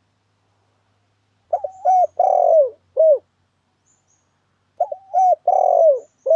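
Spotted dove cooing its song twice, about three seconds apart. Each phrase is a couple of short coos, a long falling coo and a short closing note. It is the dove's call played as a trapping lure.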